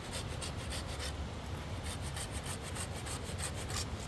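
A hand tool working wood with quick, rhythmic rasping strokes, about four or five a second, with a short pause about a second in.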